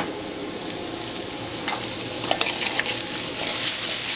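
Diced potatoes frying in a skillet on a gas burner, alongside a pan of chicken and Italian sausage: a steady sizzle. A few short metallic clicks in the second half as the potato pan is shaken.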